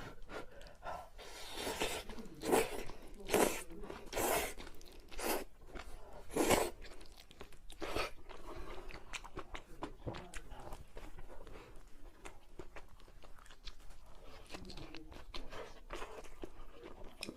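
Crunchy food being bitten and chewed: a series of loud crunches about a second apart, then quieter chewing with many small clicks from about eight seconds in.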